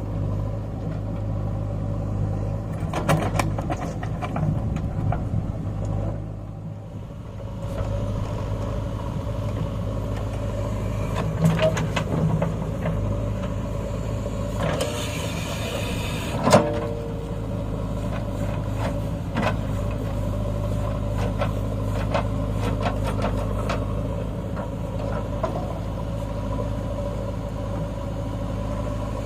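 Heavy diesel engine running steadily with a low hum, briefly easing off about six seconds in, with scattered clanks and one sharp knock about sixteen seconds in.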